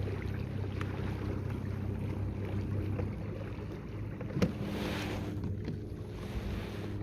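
Steady electric hum of the Minn Kota motor drive on an Old Town Sportsman 106 fishing kayak. About four and a half seconds in there is a sharp click, followed by a short hiss.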